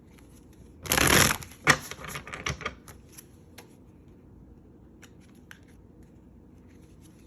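Tarot cards being handled: a short rustle about a second in, then scattered soft clicks and taps.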